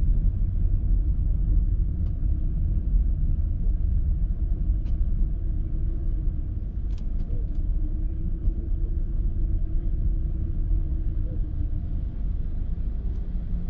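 City street traffic: a steady low rumble of passing vehicles, with one engine tone swelling and fading between about seven and eleven seconds in.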